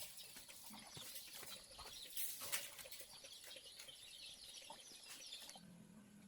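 Farmyard chickens clucking and small birds chirping faintly, many quick high chirps with scattered clicks. The chirping dies away near the end as a low steady hum comes in.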